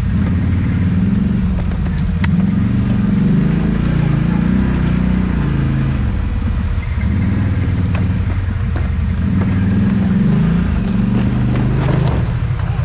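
ATV engine running loud, revving up and down repeatedly as the machine works its way across an obstacle in snow.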